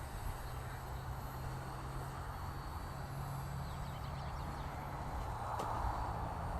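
Parrot Bebop quadcopter in flight, its propellers giving a faint steady high whine over a low wind rumble on the microphone, with a hiss that swells about two-thirds of the way through.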